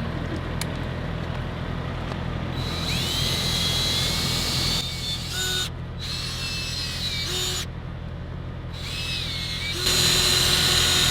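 Electric drill spinning a 3000-grit sanding pad against a wet plastic headlight lens, wet-sanding it. It runs in three bursts, its whine climbing in pitch as each starts.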